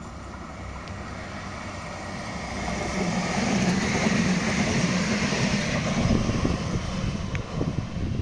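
A train approaching and passing, its rumbling rush growing steadily louder, with rhythmic wheel clatter over the rails starting about six seconds in.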